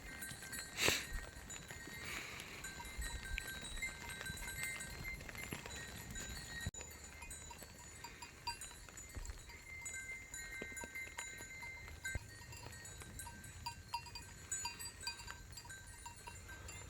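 Bells on a grazing sheep flock clinking irregularly, many short high rings scattered throughout. A sharp knock sounds about a second in.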